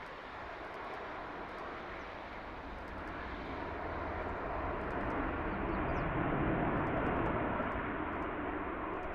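Jet engine noise of an Airbus A350 airliner passing, swelling to a peak about two-thirds of the way through and then starting to fade.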